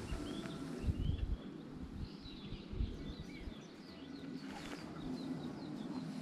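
Small wild birds chirping and singing in quick repeated short notes. A couple of low thumps come about a second in and again near three seconds.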